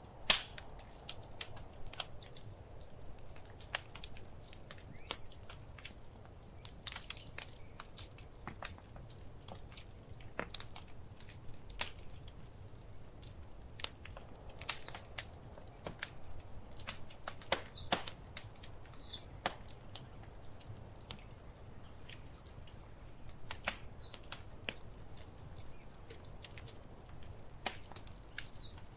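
Wood fire crackling in a fireplace: irregular sharp pops and snaps over a soft steady hiss and low rumble of the flames.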